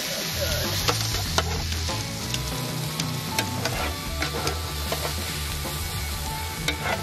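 Steak and vegetables sizzling on a hot griddle: a steady frying hiss, with scattered sharp clicks of metal tongs handling the steak.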